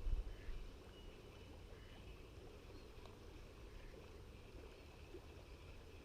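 A brief wind gust rumbling on the microphone in the first moment, then faint steady wind and flowing river water.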